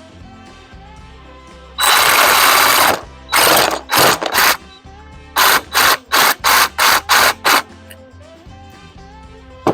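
Jigsaw cutting wood in bursts: one run of about a second, then a string of short stop-start cuts about three a second, over background music.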